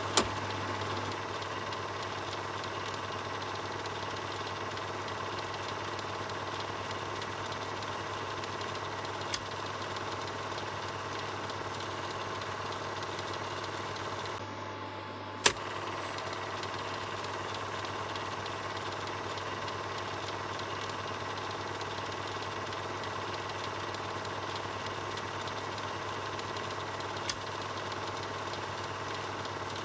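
Film projector running with a steady whirring clatter over a low hum. A few sharp clicks cut through it; the loudest comes about halfway, right after a brief dip in the sound.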